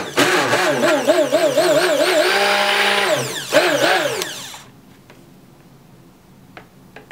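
Stick blender running in a pot of melted oils, butters and coconut milk, its motor pitch wavering up and down and briefly holding steady, then winding down and stopping a little over four seconds in.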